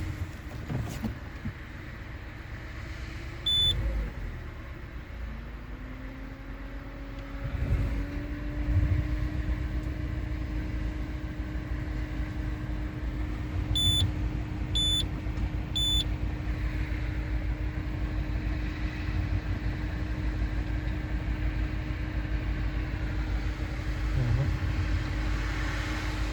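PSA 1.6 VTi four-cylinder petrol engine running with a low, uneven pulse and a steady hum whose pitch rises once about seven seconds in, the engine misfiring on cylinder 1 (codes P0301 and P0351, an ignition coil circuit fault). Short high electronic beeps sound once early and three times about a second apart in the middle.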